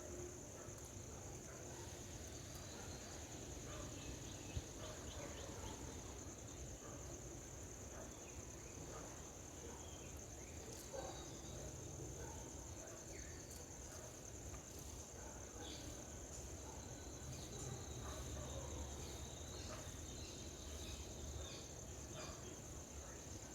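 Insects droning steadily at a high pitch, with scattered small clicks and a few faint chirps.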